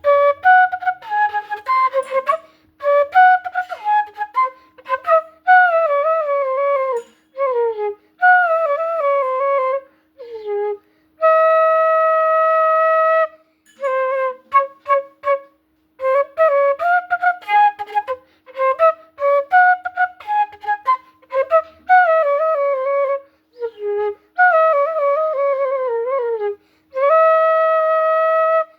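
Flute playing a song melody with a clean tone and no breathy hiss, in short phrases broken by two long held notes, about eleven seconds in and near the end.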